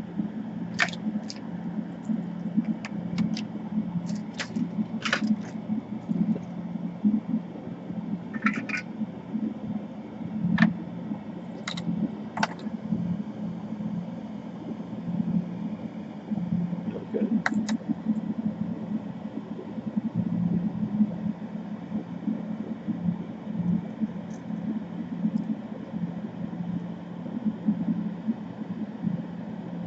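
Steady low machine hum, with scattered small clicks and taps of tools handling the laptop board and jack during soldering work.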